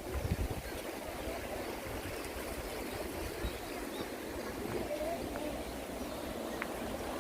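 Steady rush of stream water flowing, with faint voices in the background.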